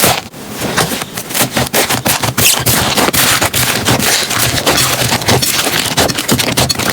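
Slime being squished and pressed by hand, giving a rapid, irregular run of crackling pops and clicks.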